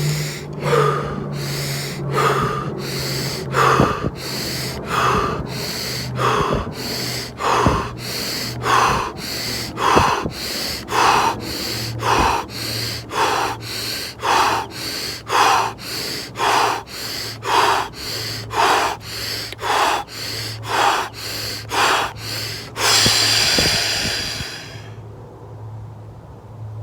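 A person doing rapid, forceful Wim Hof-style power breathing through the mouth, one breath stroke about every two-thirds of a second. Near the end comes one longer breath, then the breathing stops. A low steady hum runs underneath.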